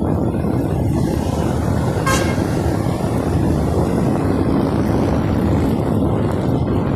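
Steady low rumble of road traffic or wind noise while riding, with one short, high horn toot about two seconds in.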